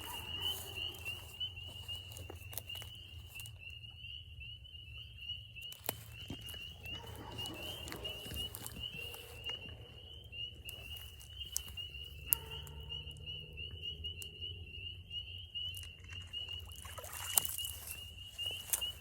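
A chorus of spring peepers, many high peeps running together into one steady shrill band. Scattered clicks, knocks and light splashes from a dip net working in the creek water.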